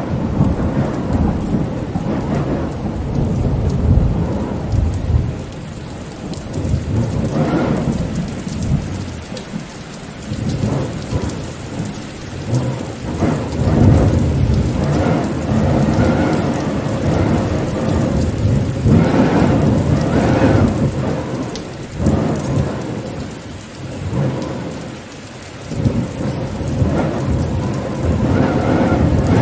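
Rain falling steadily, with deep rumbling swells of wind that rise and fade every few seconds.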